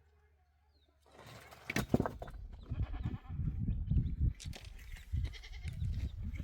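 Goats and sheep bleating several times, starting after a quiet first second, over heavy, irregular low rumbling. A sharp knock comes about two seconds in.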